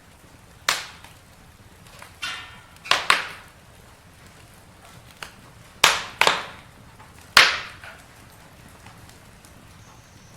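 Campfire of burning wood crackling, with about six sharp, loud pops spread through it over a faint low background.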